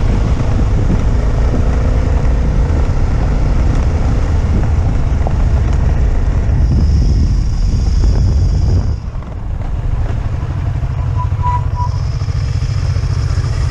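Motorcycle engine running, dropping off briefly about nine seconds in, then running steadily at lower revs.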